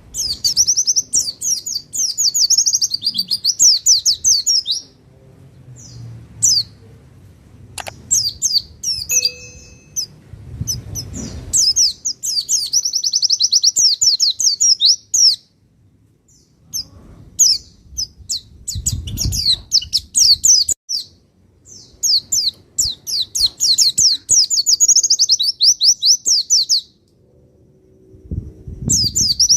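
Pleci (white-eye, Pacitan type) singing long, fast, high-pitched twittering phrases of several seconds each, separated by short pauses.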